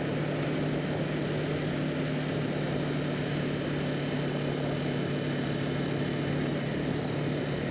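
Motorcycle engine running at a steady pitch, pulling up a steep hill, over a steady rushing noise.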